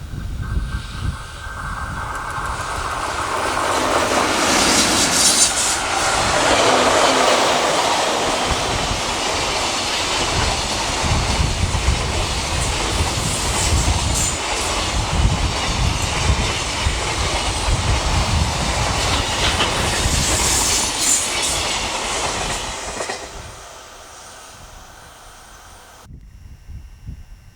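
EH500 electric locomotive hauling a long container freight train past at speed: a steady high whine as it approaches, loudest as the locomotive goes by, then a long, even rattle of the wagons' wheels over the rails that fades away and cuts off abruptly near the end.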